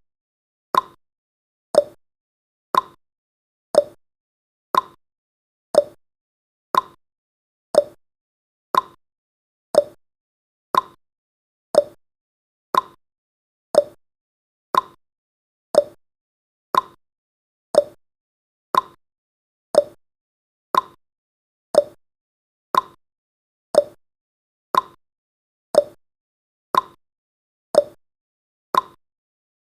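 Clock-style tick-tock sound effect: one short sharp tick about every second, alternating between a higher and a lower tick.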